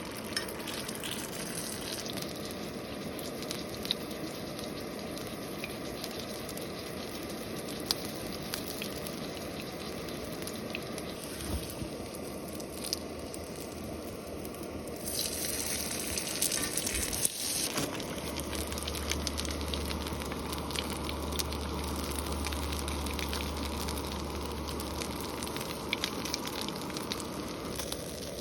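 Food frying in a pan: a steady sizzle with scattered sharp pops, which grows louder about halfway through.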